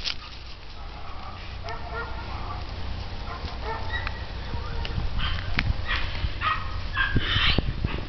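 Dog barking and yipping in short bursts, several in a row in the second half, over a steady low rumble.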